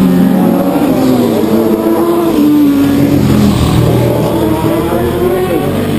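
Several racing motorcycles at speed, their engines revving hard, with the pitch falling and rising as they go by and change gear. A deeper, heavier engine rumble comes in about halfway through.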